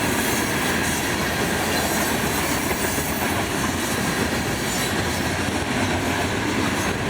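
Florida East Coast Railway rock train's hopper cars rolling past: a steady rumble and rattle of steel wheels on the rails.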